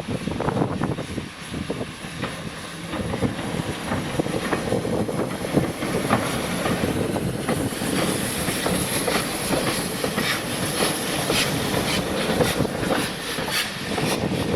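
A train passing on a heritage railway line, its wheels clicking over the rail joints in a steady rumbling clickety-clack.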